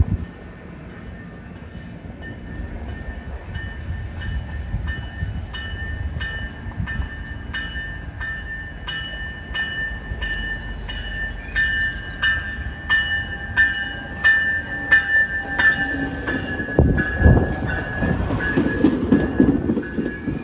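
Passenger train coming through the station, with a regular ringing at a bit under two strikes a second; the train's rumble and wheel clatter grow loud about three-quarters of the way in.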